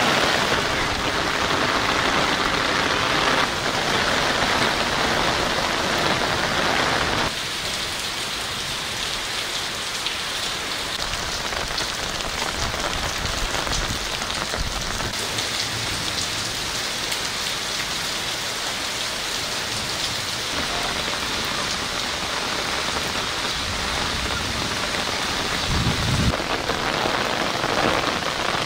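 Heavy rain pouring steadily, a dense hiss of rain falling on roofs, trees and flooded pavement. It is louder and fuller for the first several seconds, and there is a brief low rumble near the end.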